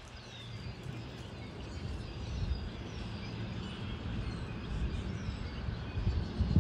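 Small birds chirping, many short sweeping notes scattered throughout, over a steady low rumble.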